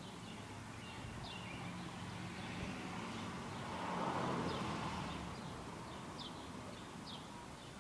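Small birds in a roof gutter giving short, high chirps, scattered and irregular, over a faint low hum. A soft rushing noise swells and fades around the middle.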